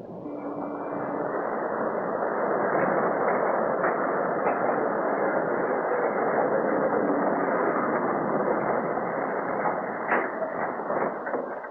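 Third Avenue El elevated train running into a station, a steady muffled rush of wheels on track that builds over the first two seconds, then several sharp metallic knocks near the end. The old film soundtrack cuts off the highs.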